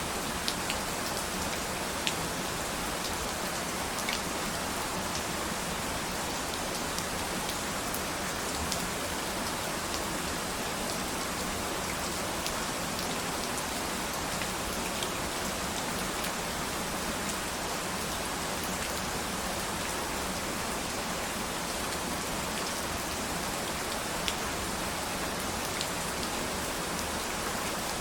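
Steady rain falling, with a constant hiss and the odd sharper tick of single drops hitting a surface.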